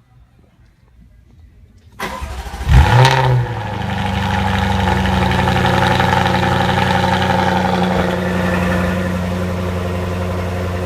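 Jaguar F-Type SVR's supercharged 5.0-litre V8 starting up: the starter catches about two seconds in, the engine flares loudly for a moment, then settles into a steady idle that eases down slightly near the end.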